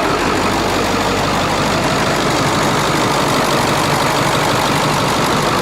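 Ford 7.3 L Power Stroke turbo-diesel V8 idling steadily, running again after a no-start repair.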